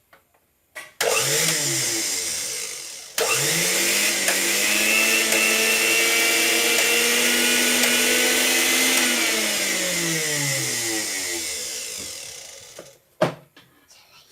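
Mixer grinder's brushed universal motor test-run after rewiring: a short spin up and down, then a longer run at steady full speed that winds down over about three seconds as the power is cut, with a click at the end.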